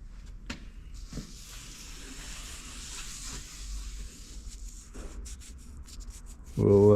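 A rubbing, scraping hiss lasting a few seconds, with a few light knocks before it and a quick run of small clicks near the end.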